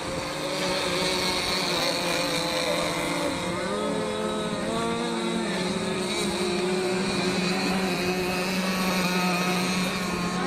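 Several gas-powered RC racing boats with Zenoah G260 two-stroke engines running together at high revs, a high-pitched whine whose pitch rises and falls as the boats throttle through the course.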